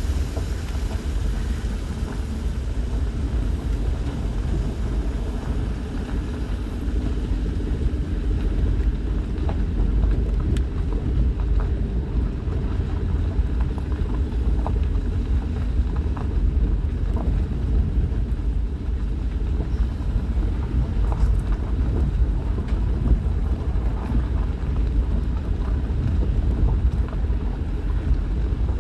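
Vehicle driving: a steady low rumble of engine and tyres, with a few light ticks and rattles scattered through it.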